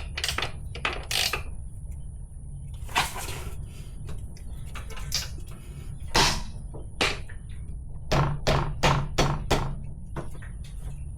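Metal hand tools clinking and knocking as a wrench is fitted onto a motorcycle's rear axle nut, with scattered single knocks and a quick run of about five near the end. A steady low hum runs underneath.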